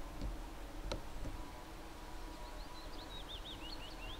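Outdoor rural ambience with a faint steady hum. A small songbird sings a quick run of high twittering chirps from about halfway through, and there is a single sharp click about a second in.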